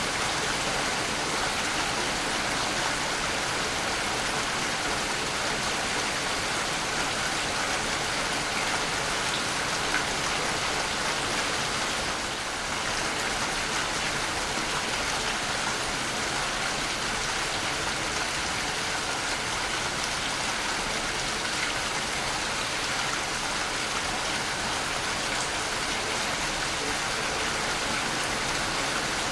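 Waterfall rushing: a steady, even hiss of falling water with no change in rhythm.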